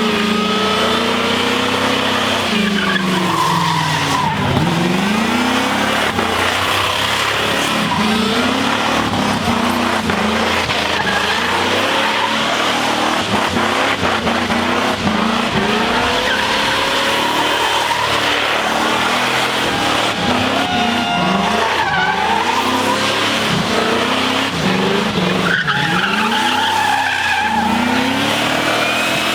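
A car's engine revving hard, its pitch rising and falling again and again, while the spinning tyres squeal and skid in a burnout.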